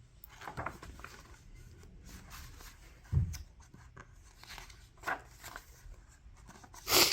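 Soft rustling and handling of a picture book's paper pages as a page is turned. There is a dull thump about three seconds in and a louder rustle at the very end.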